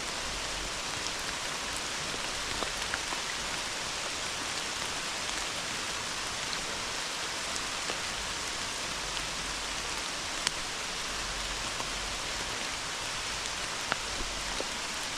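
Heavy rain falling steadily on the woods, an even hiss with scattered sharp drop ticks.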